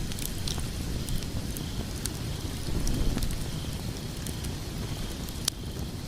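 Wood fire burning in a fireplace: a steady low rumble of flames with scattered sharp crackles and pops from the burning logs. The loudest pop comes about five and a half seconds in.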